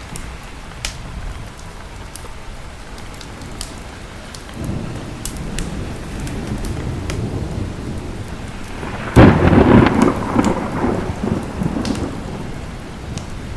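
Steady rain with thunder. A low rumble builds about a third of the way in, then a sudden loud thunderclap comes past the middle and rolls away over a few seconds. Sharp crackles of a fireplace are scattered throughout.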